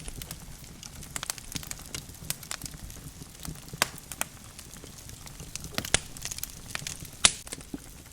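Logs burning in a fireplace, crackling with irregular sharp pops, the loudest about seven seconds in, over a steady low rumble.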